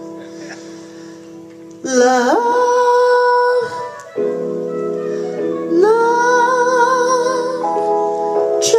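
A woman singing the word "love" in long held notes with vibrato, scooping up into each note, over sustained chords. The voice enters about two seconds in and again about six seconds in, after a quieter stretch where only the chord hangs.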